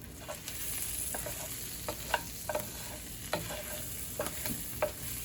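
Spinach frying in a pan on the stove with a steady sizzle, while a utensil stirs it, making irregular light clicks and knocks against the pan.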